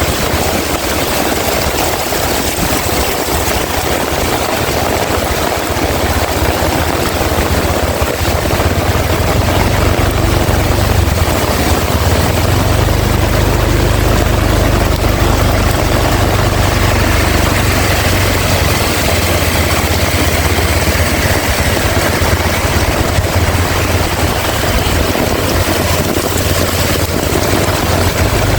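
Heavy rain pouring steadily, with strong wind gusting over the microphone as a deep rumble that grows stronger after the first several seconds.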